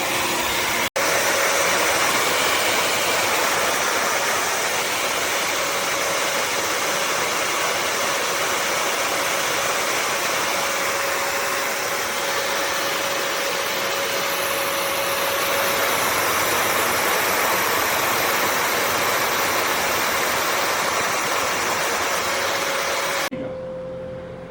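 Bissell CrossWave HydroSteam wet-dry vacuum running steadily: a constant rushing motor noise with a faint steady whine, dropping out for a split second about a second in and cutting off abruptly near the end.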